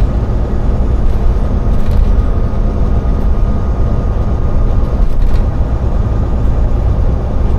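Inside a semi-truck cab while driving: the diesel engine and road noise make a steady low rumble, with a faint steady whine above it.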